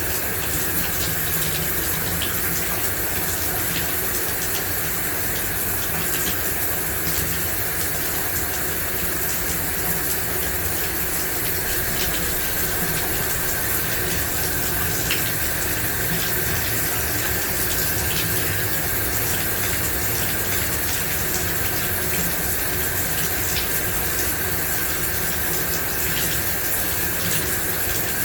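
Shower running steadily, water spraying and splashing in an even hiss, with small droplet ticks.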